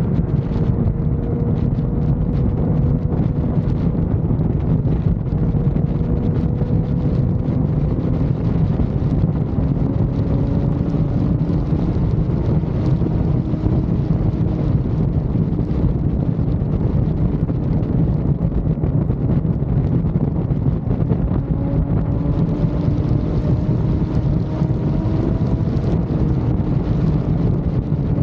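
Motorcycle cruising at highway speed: heavy wind buffeting on the microphone, with the engine's steady hum underneath, its pitch drifting slowly up and down with the throttle.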